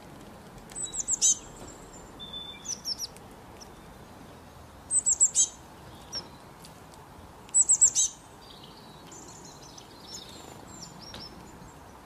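Small songbirds chirping: short, high, falling chirps in quick clusters of three or four, repeated several times, with a few fainter calls near the end.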